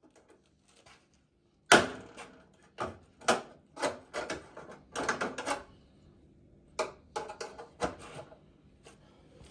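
A string of irregular sharp knocks and clatters, as of hard objects being handled and set down, starting about two seconds in with the loudest one and thinning out to a few lighter clicks near the end.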